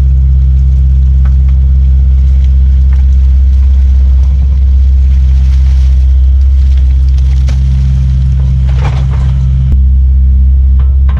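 Kubota U55-4 mini excavator's diesel engine running steadily with a deep, even drone, with a few light clanks and a short scraping rush about nine seconds in.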